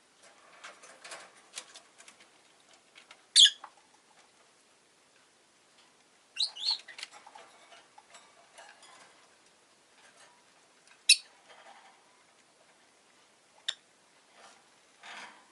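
Rosy-faced lovebird giving a handful of short, sharp chirps, spaced a few seconds apart, between bouts of light scratching and rustling.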